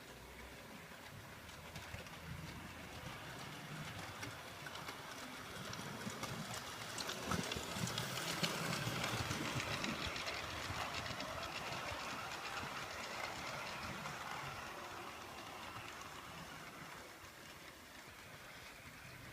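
A train passing: its rumble and the clatter of its wheels build up to a peak about eight seconds in, then slowly fade away.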